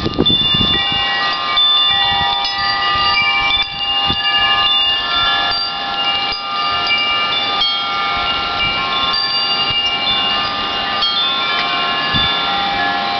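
Wind chimes stirred by the wind, with many clear, long-ringing tones at different pitches overlapping. New strikes come every few seconds.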